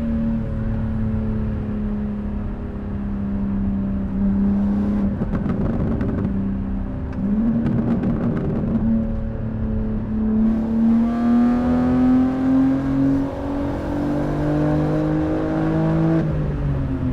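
BMW G80 M3 Competition's twin-turbo inline-six on the stock exhaust, running at a steady pitch, then a rougher stretch with crackles, then a pull with the engine note climbing for about five seconds before it drops sharply as the throttle is released near the end.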